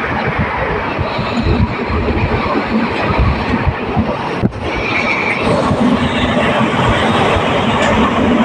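Moving passenger train: steady running noise of wheels on the track and carriages, with a brief break about four and a half seconds in.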